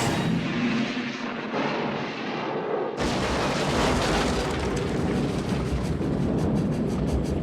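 Film sound effect of a steam locomotive crashing and exploding: a sudden loud blast about three seconds in, followed by a long, dense rumble.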